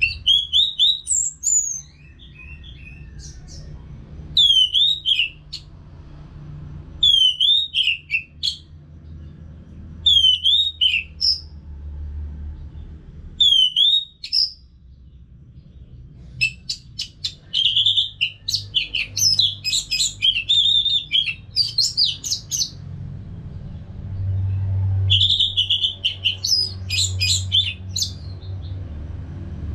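Orange-headed thrush singing: short whistled phrases with sharp downslurred notes, repeated about every three seconds, then longer, faster runs of notes past the middle and again near the end. A steady low hum runs underneath.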